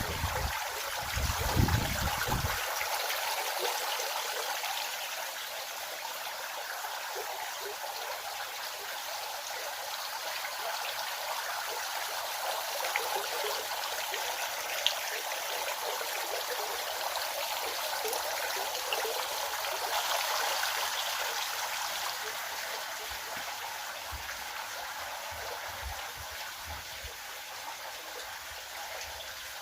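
Steady rush of running water, like a stream flowing, with low rumbles during the first two seconds or so.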